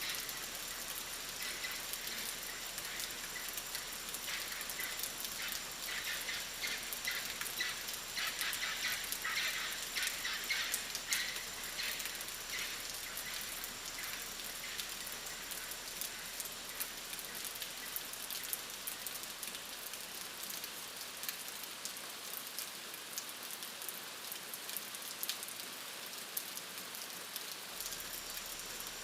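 Steady rainfall, full of many separate sharp drop hits, heaviest in the first dozen seconds and then settling to an even fall.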